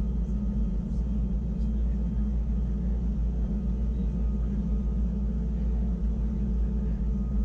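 Wengernalp Railway electric rack train running, heard from inside the passenger car: a steady low rumble with a faint even whine above it.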